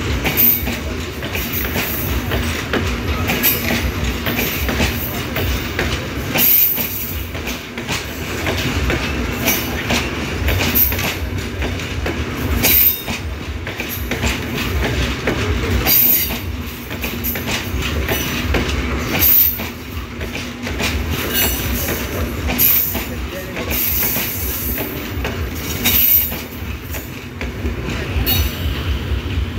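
Passenger coaches of a locomotive-hauled train rolling past at speed: a continuous rumble and clatter of steel wheels on the rails, with brief high-pitched bursts every few seconds.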